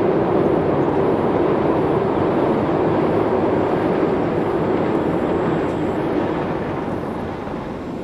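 Passenger train running: a steady loud rumble and rush that eases a little near the end.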